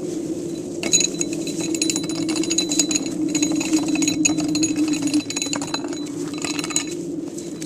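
Hamilton Beach blade coffee grinder's motor running with a steady hum, with a dense rattling clatter from about a second in until near the end.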